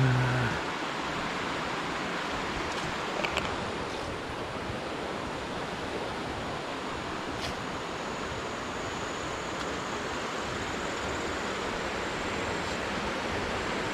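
Steady rushing of water from a spring-fed waterfall, with a brief low thump at the very start.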